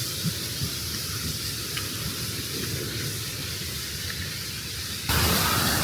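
Steady hiss of rushing water, most likely a waterfall or stream, with a few faint ticks. About five seconds in it jumps suddenly to a louder, fuller rush of water.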